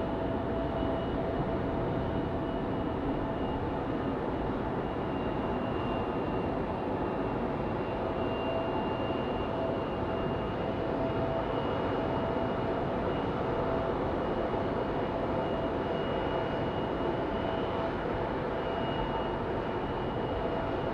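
Jet airliner engines running: a steady rushing noise with a thin steady whine over it, holding at one level without building or fading.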